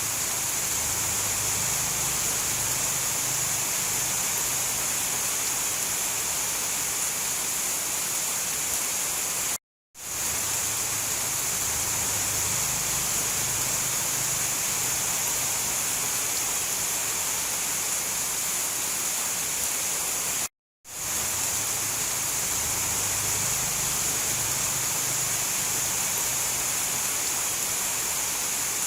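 Steady, heavy rain hiss with no thunder. It cuts out to silence for a split second twice, about 10 seconds and about 21 seconds in, where the recording loops.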